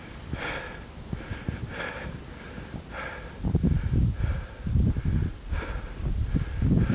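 A person breathing heavily in a regular rhythm, about one breath every second and a half. From about halfway in come low thuds and rumble.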